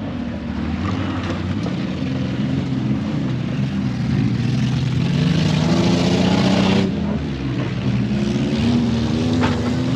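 Off-road racing truck engine revving hard under load. Its pitch climbs for a few seconds, then drops suddenly about seven seconds in and starts climbing again.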